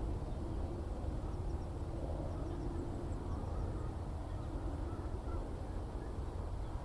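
Open-country ambience: a steady low rumble, with faint, scattered high bird chirps over it.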